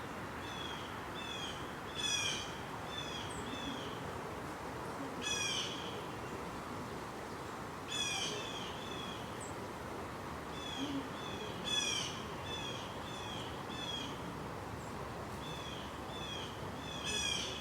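Repeated short, high chirping calls from a small animal, about two a second, with a louder, fuller call every few seconds.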